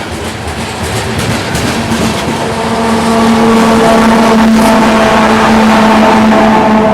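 Diesel freight locomotive coming up close and growing louder. From a couple of seconds in, its engine holds a steady droning tone over the rumble of the train.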